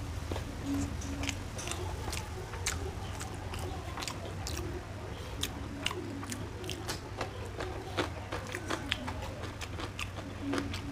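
A person chewing a mouthful of rice and curry close to the microphone, with frequent irregular wet mouth clicks and smacks, over a steady low hum.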